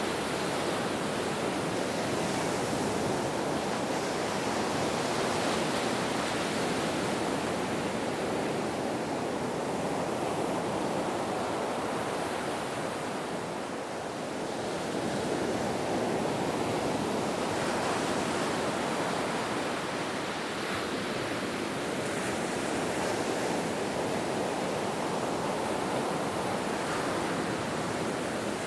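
Ocean surf: a steady wash of breaking waves, swelling and easing gently, with a brief lull about halfway through.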